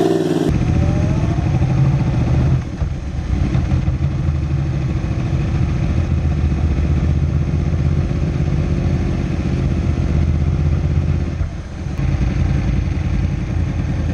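Superbike engine idling steadily through a loud exhaust, with two brief dips in level, the first about two and a half seconds in and the second near the end.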